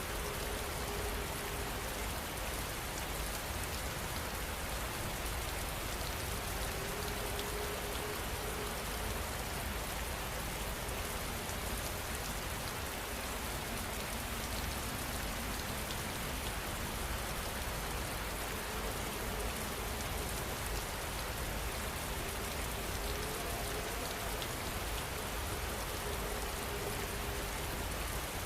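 Steady rain falling, an even, unbroken rush of drops.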